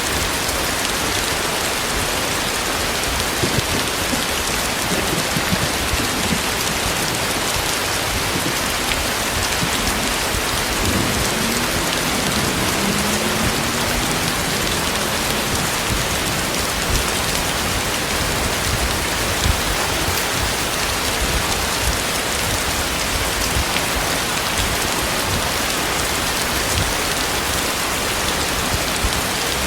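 Heavy rain falling steadily, drops hitting the ground and nearby surfaces in a dense, even hiss.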